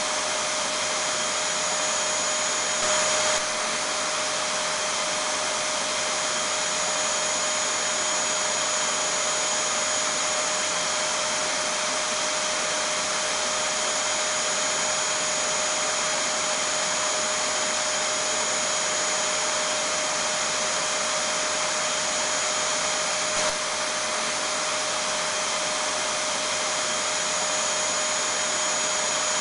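Vacuum cleaner running steadily: a constant rushing whir with a steady whine on top, swelling slightly for a moment about three seconds in.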